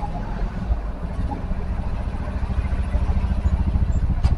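Vehicle engine idling: a steady low rumble with a fast, even pulse that grows a little louder in the last second or so. A single sharp click comes near the end.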